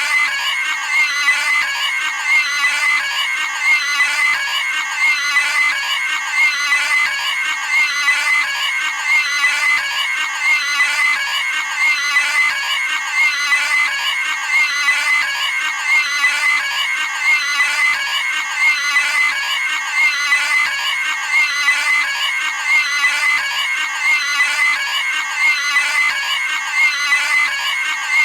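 Cartoon pig's shrill squealing scream, a short sound effect repeated back to back in a loop about once every second and a half.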